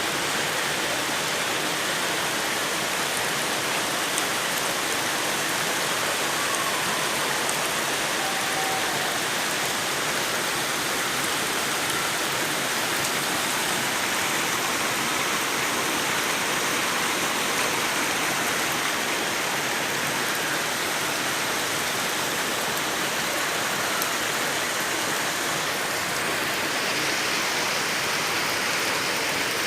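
A waterfall pouring steadily: a dense, even rush of falling and splashing water.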